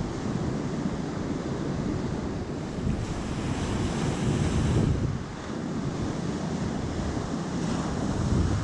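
Sea surf washing on the shore, with wind buffeting the microphone. A wave surges up about three seconds in and falls away around the five-second mark.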